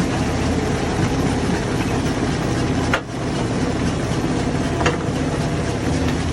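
Hammer-type stone crusher running with a steady mechanical drone. Two sharp knocks of rock or steel stand out, about three seconds in and again near five seconds.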